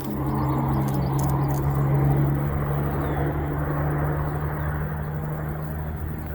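An engine running with a steady low hum, loudest about two seconds in and then slowly fading.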